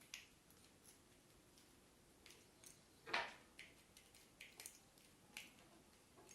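A few faint, short clicks and light taps of small parts being handled as a nut is fitted by hand onto a DP main switch during reassembly, the loudest click about three seconds in.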